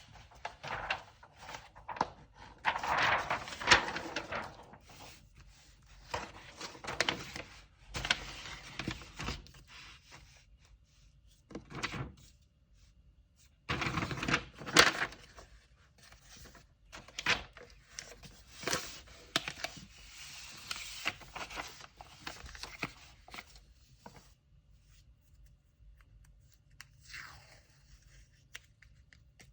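Hands packing an order: paper rustling and crinkling with scrapes and light knocks, in irregular bursts that thin out over the last few seconds.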